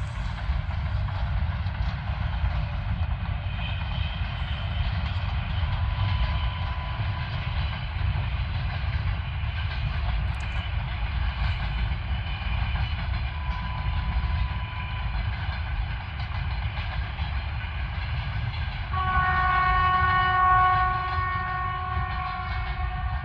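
Freight train running with a steady low rumble; about nineteen seconds in, an electric locomotive's horn sounds one long chord of several tones lasting about three seconds, the loudest sound here.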